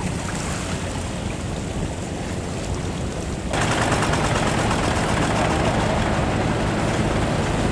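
A boat engine chugging with rapid low pulses under a rush of wind and water noise. It steps up louder about three and a half seconds in.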